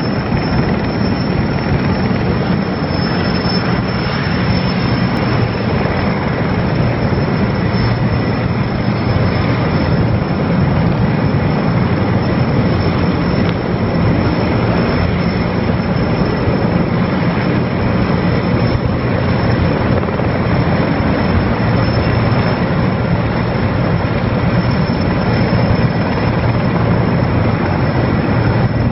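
Erickson Air-Crane heavy-lift helicopter running during a lift, a loud steady rotor and engine noise that holds level throughout.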